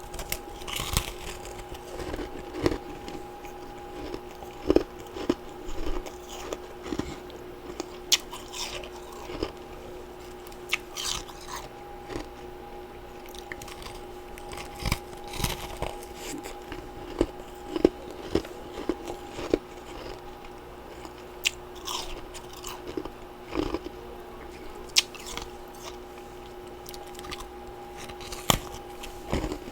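Close-miked biting and chewing of freezer frost and ice chunks: sharp, irregular crunches, several clusters of them, over a faint steady hum.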